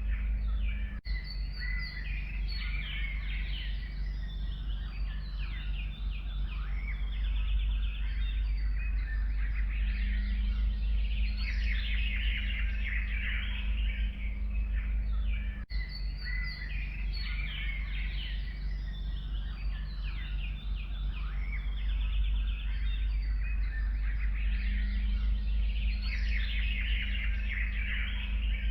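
Many songbirds chirping and singing together over a steady low rumble. The same stretch of birdsong repeats about every fifteen seconds, as a loop.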